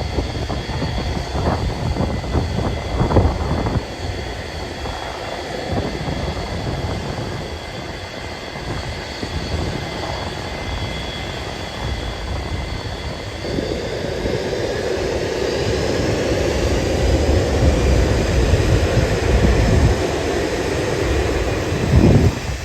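Boeing 727's Pratt & Whitney JT8D turbofan jet engines running with a steady high whine over a rumble; about 14 seconds in the whine rises in pitch and the engine noise grows louder.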